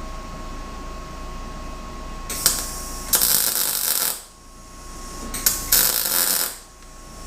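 Two short bursts of electric arc welding crackle and sizzle, the first about a second and a half long and the second about a second, as bushing ends are tack welded onto 4-link bars.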